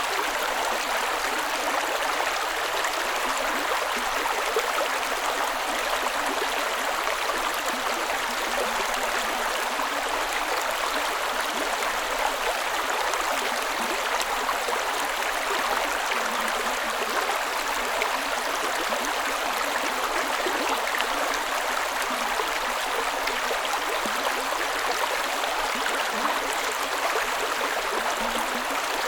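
A creek running steadily over rocks, a constant rushing and gurgling of flowing water.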